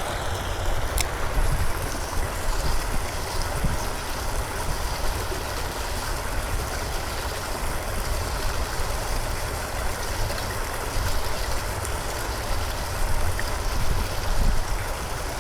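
Steady outdoor rushing noise with an uneven low rumble of wind on the microphone.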